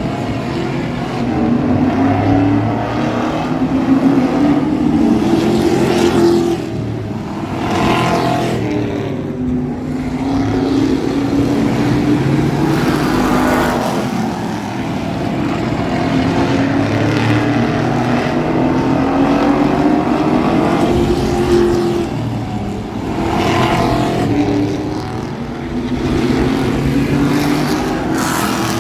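Thunder Truck race engines running flat out around a short oval track. The engine pitch climbs for several seconds and then drops, over and over about every 7 to 8 seconds, with a couple of brief louder swells as trucks pass close by.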